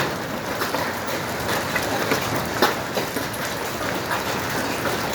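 Golf-ball-size hailstones pelting a hard surface: a dense, loud rattle of impacts with sharper single strikes standing out at irregular moments.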